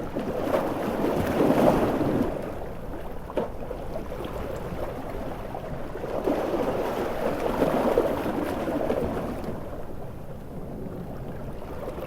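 Large sea waves surging and washing in, two broad swells about six seconds apart, with a brief sharp crackle between them.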